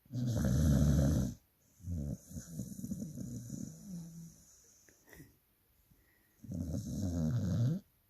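Dog snoring loudly while asleep: two loud snores about a second long, one near the start and one near the end, with a longer, quieter breath between them.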